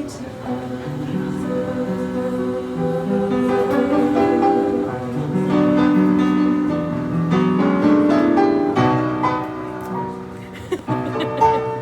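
Instrumental interlude of a slow ballad: held melody notes over changing chords, with no singing.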